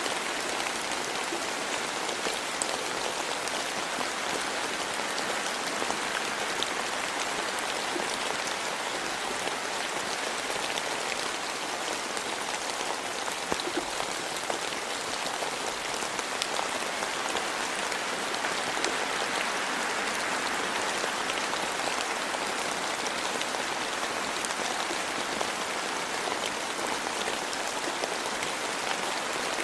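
Steady rain falling in a forest, a dense hiss of many small drop patters with fine ticks throughout.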